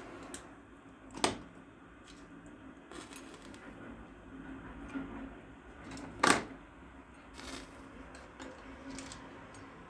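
Small fire of kindling burning in a lid, crackling with scattered sharp pops, two much louder ones about a second in and near the middle.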